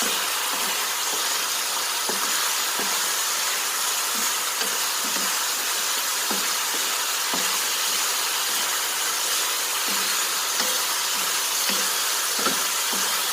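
Chicken adobo sizzling in a pan as its soy-vinegar sauce cooks down almost dry, a steady hiss with small scattered pops and crackles.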